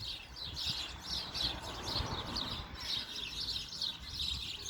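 Small birds chirping: a steady series of short, high chirps, repeated a couple of times a second throughout.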